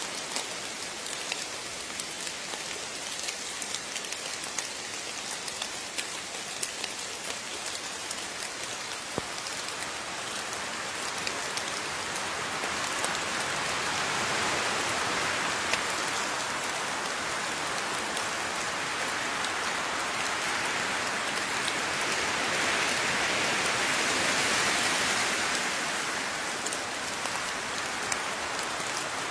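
Rain falling steadily, with individual water drops ticking through it. It grows heavier and louder from about the middle, then eases off near the end.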